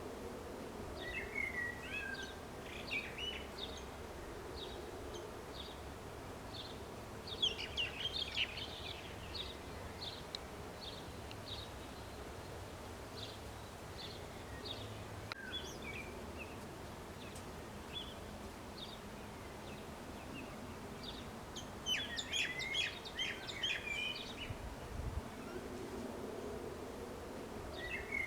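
Several songbirds singing and chirping, with fuller bursts of song about a second in, around eight seconds and again near 22 seconds, and single short chirps repeating roughly once a second in between, over steady outdoor background noise.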